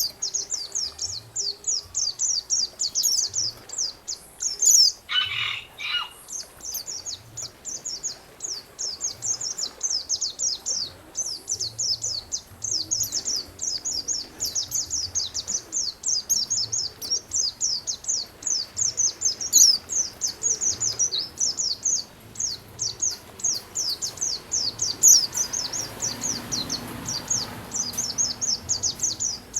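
Songbird song for masteran training: a continuous run of rapid, high chirping notes, with a harsher call about five seconds in.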